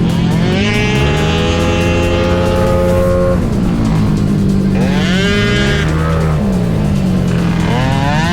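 Race-tuned 237cc Yamaha Cygnus (Gryphus engine) scooter engine revving under acceleration. The pitch climbs quickly and then holds steady, drops off about three and a half seconds in, climbs again around five seconds, falls off again near six seconds, and rises once more at the very end.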